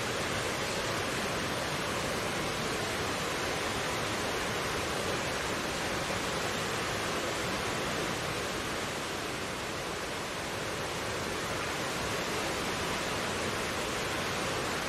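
Mountain stream flowing, a steady rushing of water with no separate splashes.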